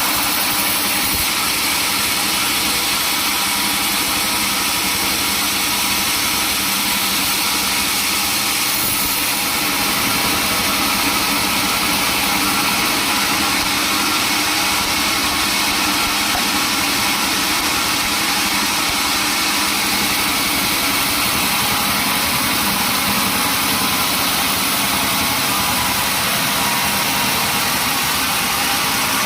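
Sawmill machinery running with a steady, unbroken mechanical noise that neither rises nor falls.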